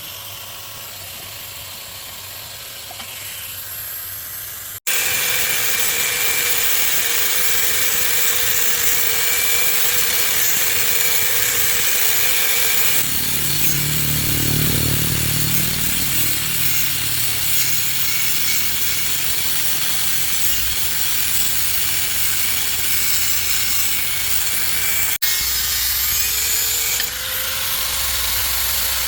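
A power tool cutting or grinding, a loud steady harsh noise that starts abruptly about five seconds in after a quieter stretch.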